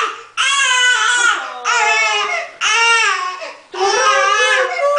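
Four-month-old baby crying in four long wails, each about a second long, with short breaths between.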